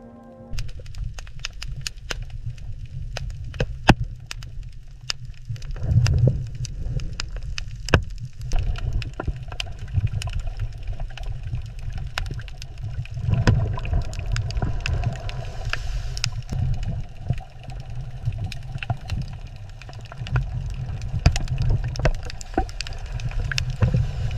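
Underwater ambience: a heavy, uneven low rumble of moving water with many scattered sharp clicks and crackles.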